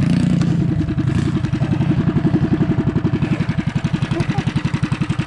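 Mini bike's small engine running close by, settling in the first second or so into a steady idle of evenly spaced putts, about a dozen a second.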